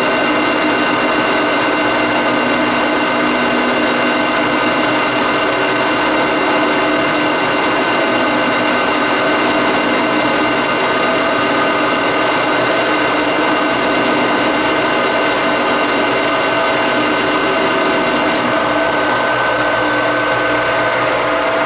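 Metal lathe running under power, turning down steel bar stock with a carbide insert: a loud, steady mechanical whine of several tones over the noise of the cut.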